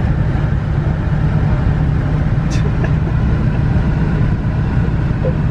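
Nissan 350Z's V6 engine and new exhaust running steadily, heard from inside the cabin as a constant low drone.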